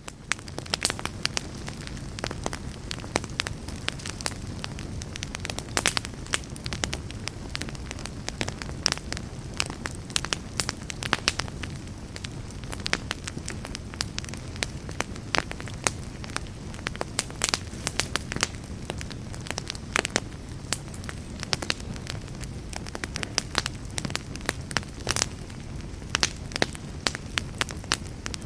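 Campfire burning: a steady low hiss with frequent, irregular sharp crackles and pops.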